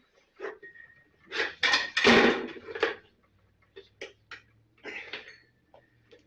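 Knocks and clatter of hard objects being handled, with a loud burst of rattling about a second and a half to three seconds in and a few separate knocks after.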